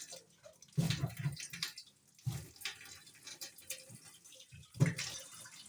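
Water splashing and sloshing as a hand rinses the inside of a twin-tub washing machine's wash tub to clear leftover soap and foam. The splashes are irregular, with stronger ones about a second in, about halfway through and near the end.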